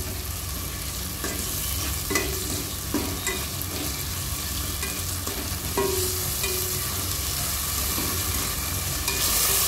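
Chopped tomatoes, potato and onion sizzling in hot oil in a nonstick pan on a low flame, with a spatula stirring and scraping through them in repeated strokes.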